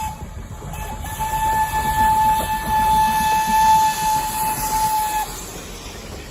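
Steam locomotive whistle blown in one long single-note blast, briefly broken just after it begins and cutting off about five seconds in, over the low rumble of the train running.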